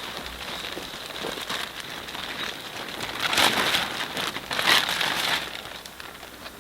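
Crackly rustling, as of movement through dry leaves and brush, made of many small rapid clicks. It swells louder twice in the second half.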